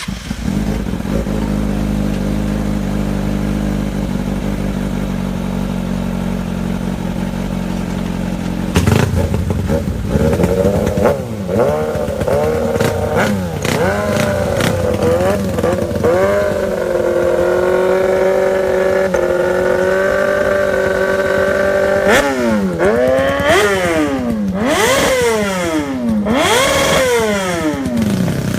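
Superbike engine idling steadily, then revved over and over from about nine seconds in: revs rising and falling, held high for several seconds, then a run of quick sharp blips near the end.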